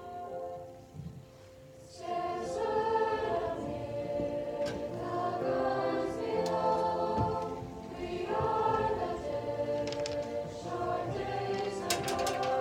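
A high school choir singing a slow choral piece, coming in about two seconds in after a brief quieter moment.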